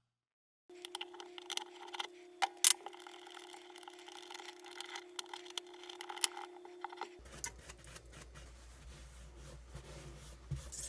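A small machine's motor running with a steady whine, with irregular sharp clicks and ticks over it. About seven seconds in it switches abruptly to a lower hum with scattered clicks.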